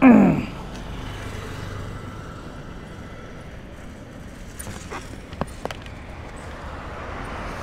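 Steady road traffic noise, opening with a brief loud falling sweep. A few sharp clicks come about five seconds in.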